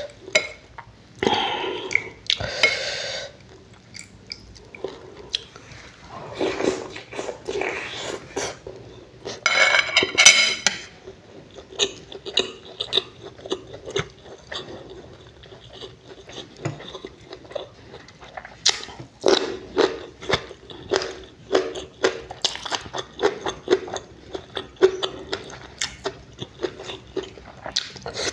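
A person chewing and eating close to the microphone, with wet smacking clicks. A couple of short noisy bursts come early, and a rapid run of smacks, about two a second, fills the second half.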